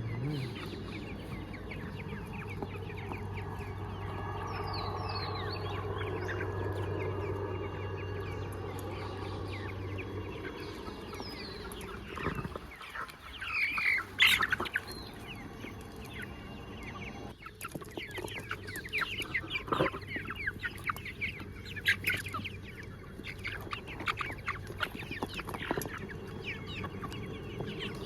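A flock of desi (country-breed) chickens clucking, with short scattered calls that grow busier in the second half and one louder squawk about fourteen seconds in.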